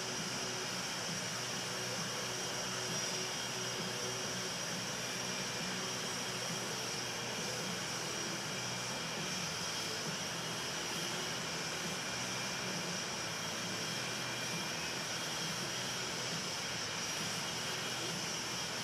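Twin-engine F/A-18 Hornet jet engines running steadily, a constant noise with a high whine.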